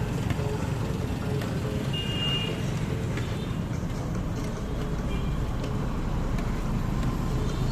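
Steady low rumble of street traffic, with a brief high tone about two seconds in.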